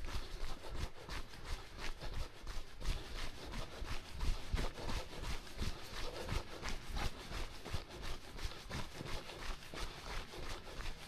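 Running footsteps on a dirt trail: shoes striking and scuffing the ground in a steady rhythm of about three footfalls a second, over a low rumble.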